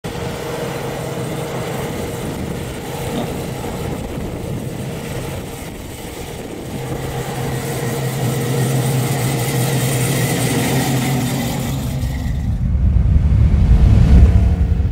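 Swapped-in 6.0 L LQ9 V8 with an upgraded cam and headers running in a 1986 Oldsmobile Cutlass 442, growing louder about halfway through. Near the end a deep rumble swells up to the loudest point.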